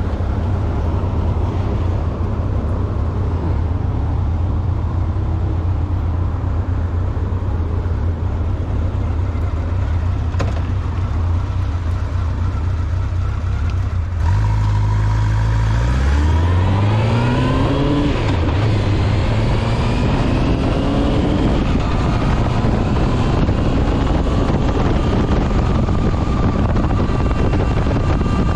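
Honda Nighthawk 750 motorcycle's inline-four engine running steadily while riding. About halfway through it gets louder and climbs in pitch as the bike accelerates, then settles into a steady, higher-pitched run.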